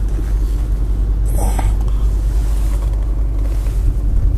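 Steady low rumble of a car driving, heard from inside the cabin, with a brief higher-pitched sound about a second and a half in.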